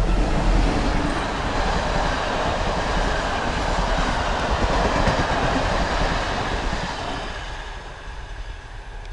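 Passenger train hauled by an electric locomotive passing close by: a steady rush and rumble of wheels on the rails from the locomotive and coaches. It is loudest in the middle and eases off near the end as the last coach goes by.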